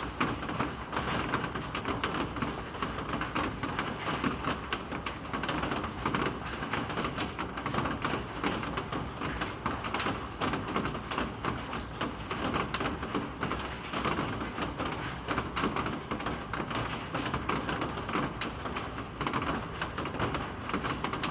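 Steady rain, with a dense run of small drops striking a hard surface.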